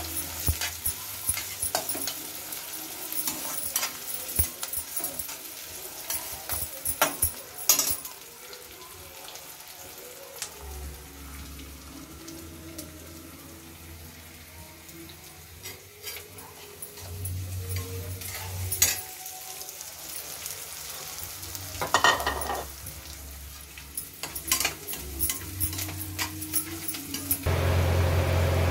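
Chopped onion frying in oil in a kadai, a steady sizzle, with a metal spatula clicking and scraping against the pan, densely through the first several seconds and now and then after. Near the end a louder steady hum starts.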